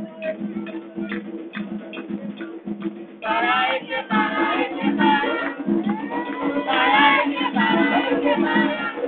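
Drums and a rattle keep up a rhythm, and voices come in singing loudly about three seconds in.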